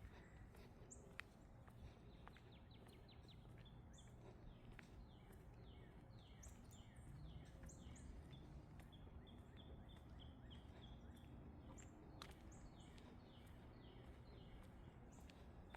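Faint birdsong: many short falling chirps repeated over and over, with a few higher notes, over a low steady background rumble. A couple of sharp clicks stand out.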